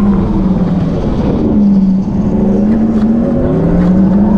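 Electric motorcycle's riding sound, a pitched hum with overtones that dips and rises gently in pitch as the bike's speed changes.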